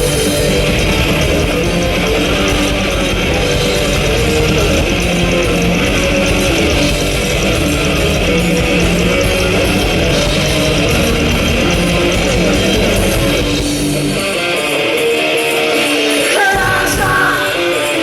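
Live rock band playing with electric guitar, bass and cymbals at full volume. About fourteen seconds in the low end drops out for a couple of seconds, and a singing voice comes in near the end.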